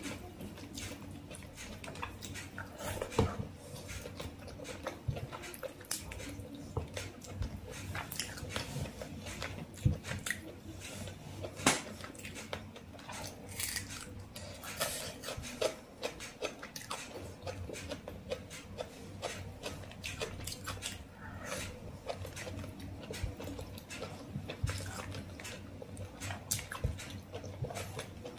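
Close-miked chewing and lip smacking of a person eating rice and chicken curry by hand, with many short mouth clicks.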